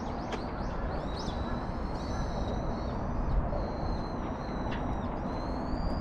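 Small birds calling with thin, high, drawn-out whistles, several in a row, over a steady background hiss of outdoor ambience.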